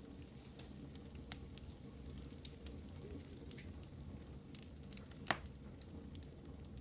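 Wood fire crackling in a fireplace: scattered small pops and snaps over a low steady rumble, with one louder pop about five seconds in.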